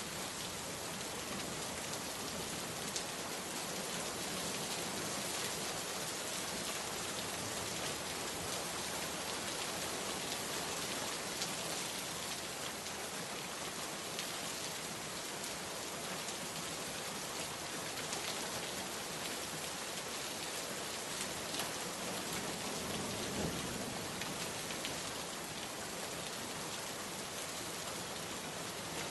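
Steady rain falling, an even hiss of rain on surfaces with a few sharper drop ticks scattered through it.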